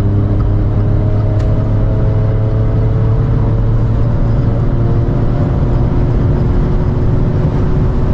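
Stage 2-tuned Volkswagen up! TSI's 1.0-litre turbocharged three-cylinder engine and dual exhaust accelerating hard, a steady drone whose pitch climbs slowly.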